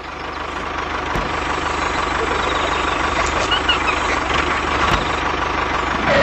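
A steady engine running sound with a fast, even low throb, fading in at the start, accompanying a DIY mini tractor as it drives.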